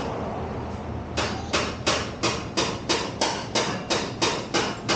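Steady hammering: about a dozen blows at roughly three a second, starting about a second in, typical of knocking on exhaust parts.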